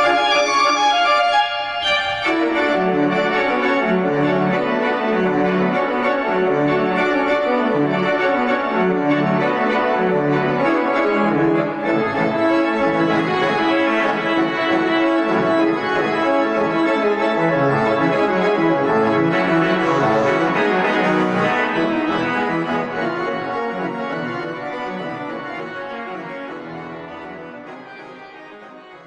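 Organ music with sustained chords over a moving bass line, which comes in about two seconds in. It fades out gradually over the last several seconds.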